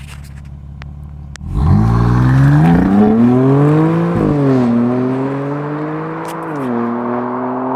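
2016 BMW M3's twin-turbo straight-six idling, then accelerating hard from about a second and a half in. The engine note rises steadily in pitch and drops sharply twice, at two upshifts, climbing again after each.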